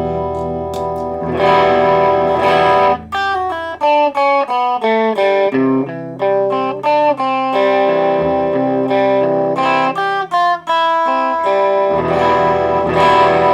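Electric guitar played with a clean tone: ringing strummed chords, then a run of single picked notes, then chords again near the end.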